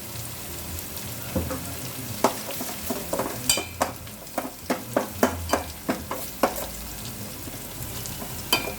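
A ladle stirring and scraping in a kadai over a steady sizzle of oil as a tomato and gongura paste fries with ginger-garlic paste. From about two seconds in the ladle clicks against the pan about once or twice a second, with a short high ring at about three and a half seconds and again near the end.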